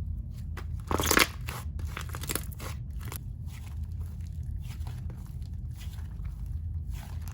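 Slime being squeezed and poked by hand, giving off sticky crackling clicks and small pops, with a louder burst about a second in.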